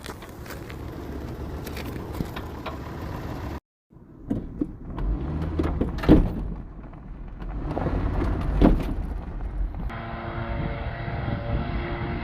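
Pickup truck being driven, its engine and road noise running with rattles and clicks, and two loud thumps about six and nine seconds in. The sound cuts out briefly about four seconds in, and near the end it settles into a steadier engine hum.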